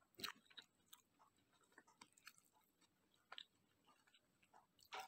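Faint chewing of a soft beef taco with lettuce, tomato and cheese: scattered quiet mouth clicks, a slightly louder one just after the start and another near the end.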